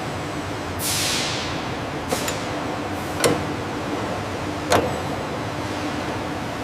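Factory-floor noise: a steady background hum with a short burst of rushing hiss about a second in, then three sharp knocks spaced a second or more apart.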